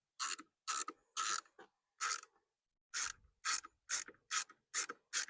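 Ratcheting screwdriver turning a screw into the steering column, giving a short burst of ratchet clicks on each back-stroke: irregular at first, then steady at about two to three strokes a second.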